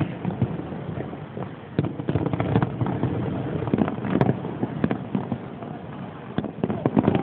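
Fireworks display: many sharp pops and crackles at irregular intervals over a steady rumbling background.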